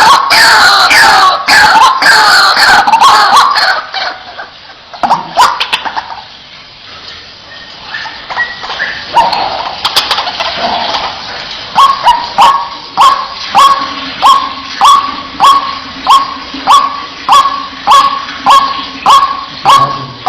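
White-breasted waterhen (ruak-ruak) calling: a loud chorus of harsh overlapping calls falling in pitch breaks off about four seconds in, followed by scattered calls. From about twelve seconds a steady run of repeated single notes, about two a second.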